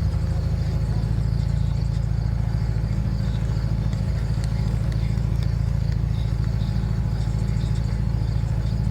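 Ford Mustang's engine idling steadily, a low, even rumble.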